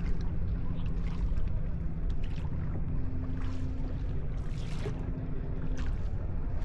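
Boat engine running steadily with a low drone, with water splashing now and then.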